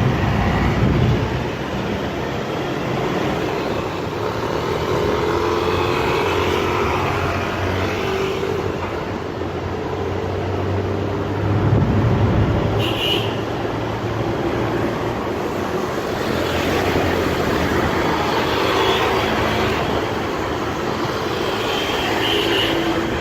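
Vehicle engine and road noise heard riding in a songthaew (converted pickup bar bus): the engine hums steadily, its pitch shifting as it speeds up and slows, with traffic around. A brief high squeal sounds about halfway through.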